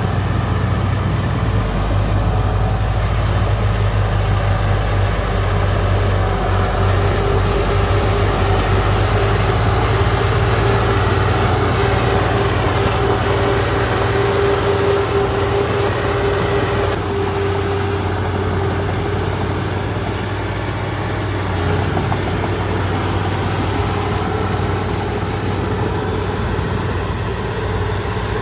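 Heavy diesel earthmoving machinery running steadily, a low engine drone with a steady whine through the middle stretch.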